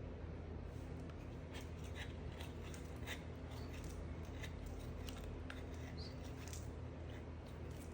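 Bar of soap being cut, giving a string of short, crisp crackles and cracks at irregular intervals over a steady low hum.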